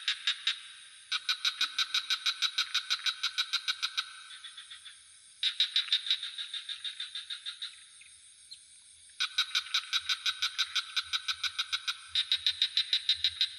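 Frogs calling in a chorus of rapid pulsed trills, about eight pulses a second, in bouts of several seconds with short gaps between, over a steady high insect drone.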